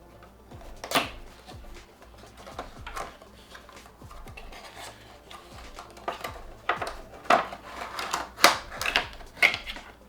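Cosmetic product packaging being handled and unboxed: rustling and crinkling with a run of sharp clicks and taps, busier and louder in the second half.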